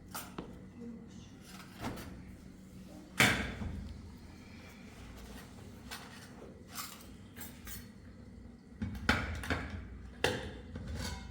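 A series of knocks and clatters from objects being handled: one sharp, loud knock about three seconds in, a few lighter clicks, then a cluster of knocks near the end.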